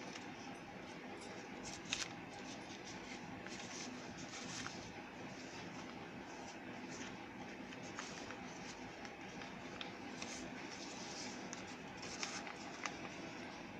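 Sheet of paper being handled and folded: soft rustling and creasing with a few sharp crackles, over a faint steady hum.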